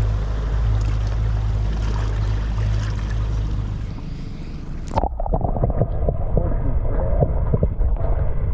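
Small boat's motor running steadily under wind and water noise. About five seconds in, the sound changes abruptly to a muffled one with irregular knocks and splashing.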